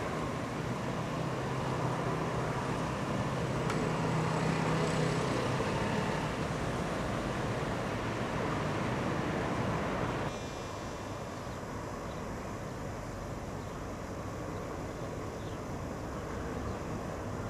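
The diesel engine of an FS D445 locomotive running with a steady low hum as its regional train moves off. About ten seconds in the sound cuts abruptly to a quieter, even rumble of an electric regional train with double-deck coaches rolling past.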